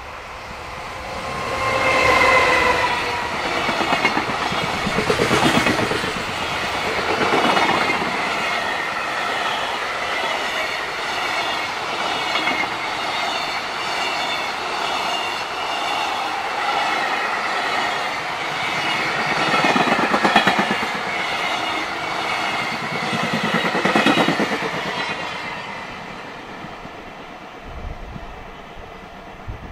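Electric-hauled container freight train passing close by: its wheels clatter in a steady rhythm over the rail joints as wagon after wagon goes by, with a short steady tone about two seconds in as the locomotive passes. The sound fades away near the end.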